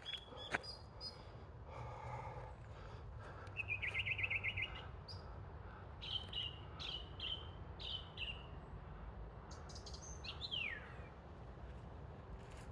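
Song thrush singing: a fast trill, then a short phrase repeated about three times, then a falling whistle. A sharp click sounds about half a second in.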